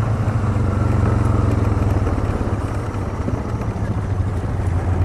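ATV engine running steadily under way on a trail, a low continuous drone that eases slightly about three seconds in.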